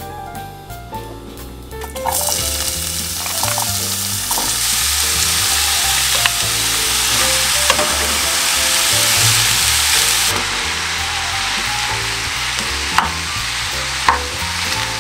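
Grated zucchini frying in hot vegetable oil in a non-stick pan: a loud, steady sizzle that starts suddenly about two seconds in. Near the end a plastic spatula stirs it, with two sharp clicks against the pan.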